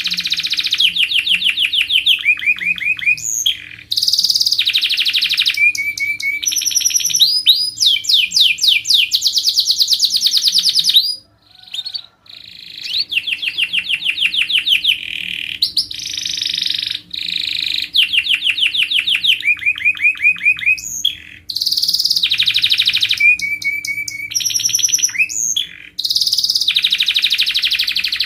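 Domestic canary singing a long song of rapid trills and rolls, fast runs of repeated high notes changing from phrase to phrase, with a brief pause about eleven seconds in.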